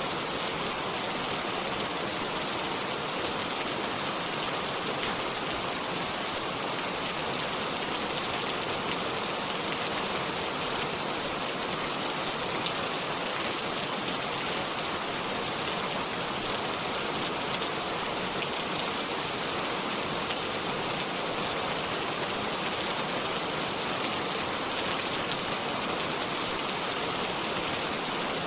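Steady rainfall pattering on surfaces, an even hiss of drops.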